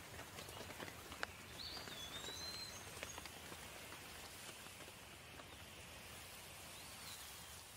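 Steady light rain with scattered single drops close by, one a sharper click about a second in. A bird gives a short whistled call about two seconds in and again near the end.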